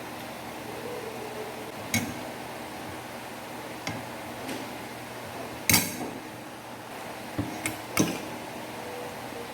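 Metal utensils clinking against dishware: about six separate sharp clinks, the loudest a little over halfway through and three close together near the end.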